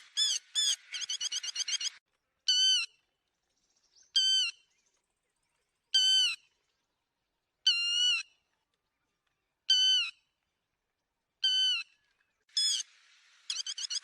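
Lapwing ('te te mỏ vàng') calls, played as a lure call for netting: a fast chattering run of sharp calls, then single loud calls about every two seconds, and a fast run again near the end.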